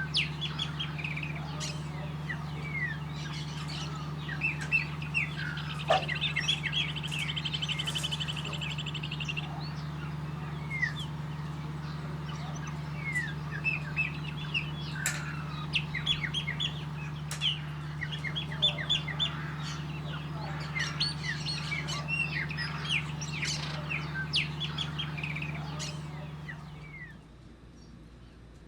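Chopi blackbirds singing and calling: many quick chirps, whistled slurs and a short rapid trill, over a steady low hum. The birdsong and hum fade out shortly before the end.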